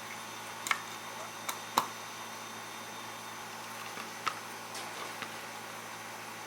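About five short, sharp clicks at irregular intervals, the loudest a little under two seconds in, over a steady faint hiss.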